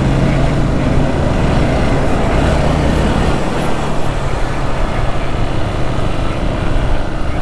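Hero XPulse 200 single-cylinder motorcycle engine running while riding, with wind and road noise. Its low hum shifts about three seconds in.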